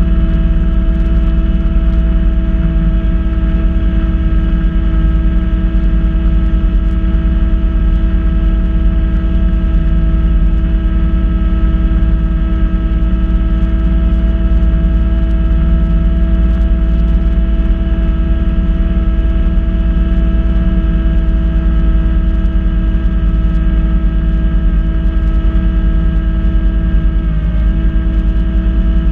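Kubota B2650 compact tractor's diesel engine running steadily under load while driving a front-mounted Kubota B2782 snow blower, with a steady whine over a deep drone. The pitch sags briefly near the end, as if the engine takes on a heavier load of snow.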